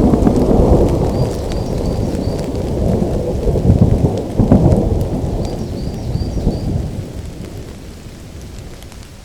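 Thunder rumbling low over steady rain, swelling to its loudest rolls about four seconds in, then dying away toward the end.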